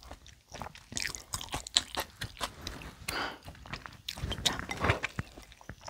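Close-up eating sounds: chewing and crunching a mouthful of bibimbap, with irregular crisp crackles, and a wooden spoon scraping in a ceramic bowl.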